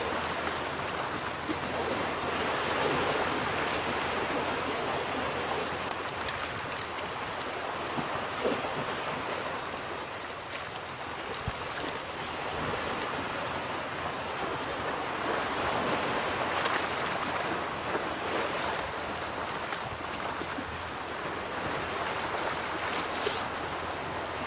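Ocean waves breaking and washing on a beach, a steady rush of surf that swells and eases slowly over several seconds.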